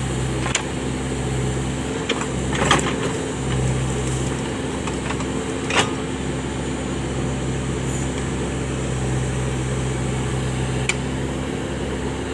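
Case 580 backhoe loader's diesel engine running at a steady speed, with a few sharp metallic knocks from the machine, the loudest about three and six seconds in.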